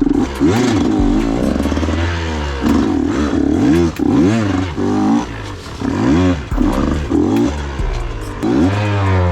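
KTM 125 XC two-stroke dirt bike engine revving up and down over and over, its pitch rising and falling about once a second as the throttle is worked.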